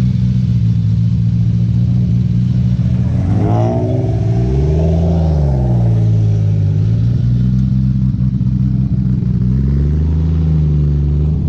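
Car engine idling steadily, blipped to a quick rev about three and a half seconds in that falls back to idle, and revved lightly again near the end.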